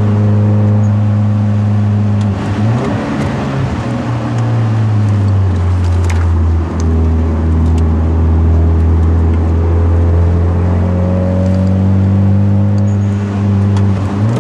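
Hyundai Genesis Coupe 2.0 turbocharged four-cylinder engine under way with the manual gearbox: the engine note dips and comes back briefly about two and a half seconds in, sinks to a lower steady pitch around four seconds, then climbs again near the end, over a steady road-noise hiss.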